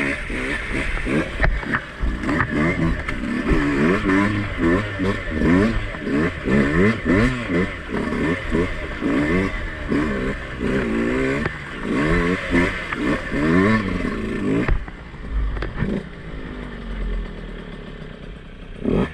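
Two-stroke enduro dirt bike being ridden on a trail, its engine revving up and falling back over and over as the throttle is worked. About three quarters through, the sound changes abruptly to a quieter, steadier engine.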